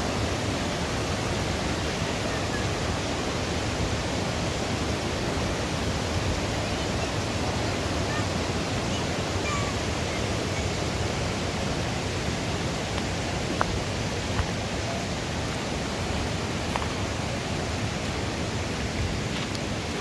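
Steady, even roar of rushing water, with a few faint ticks in the second half.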